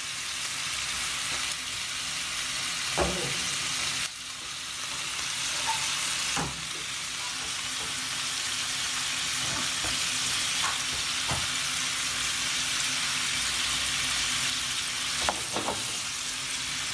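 Small whole chicken frying in hot oil in a pan: a steady sizzle that slowly grows louder. A few short knocks, about three seconds in, midway and near the end, come from a utensil against the pan.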